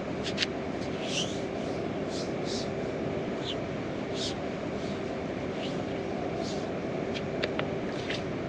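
Heavy rain falling steadily through the night, a dense even hiss with irregular sharper drop hits on top.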